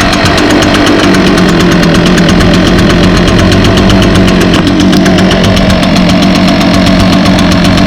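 Echo PB580T backpack leaf blower's 58.2 cc two-stroke engine running steadily and loud, freshly started after two pulls.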